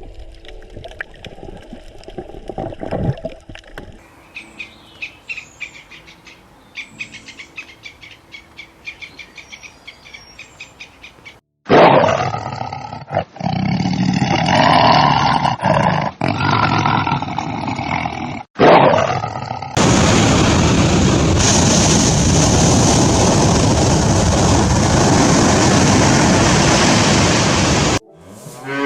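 A sequence of wild animal calls: faint, rapid clicking calls, then loud roaring and growling broken by short pauses, then a long, steady, loud rushing noise.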